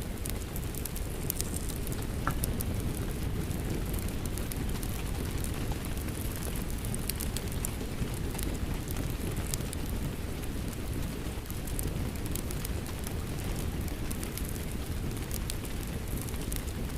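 Steady rain mixed with a crackling fireplace fire, with scattered sharp pops and crackles over a low, even rush.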